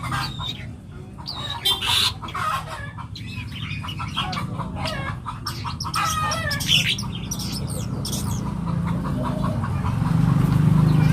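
Young long-tailed shrike singing a busy song of varied chirps, whistles and quick up-and-down glides, mixing in imitations of other birds. About seven seconds in it changes to a fast, even run of repeated notes.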